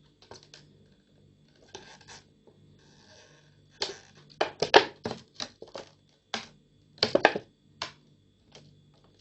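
Soldering iron tip scraping and clicking over a plastic bottle as it scores lines into the surface, in irregular short scratches. The loudest run of scratches comes about halfway through, with a faint low hum underneath.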